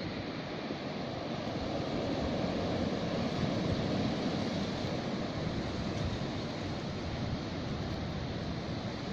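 Sea surf washing onto the shore: a steady rushing that swells a little in the middle.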